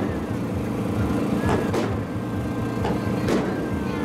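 Fireworks shells bursting, about five sharp bangs at uneven intervals, over a steady low hum.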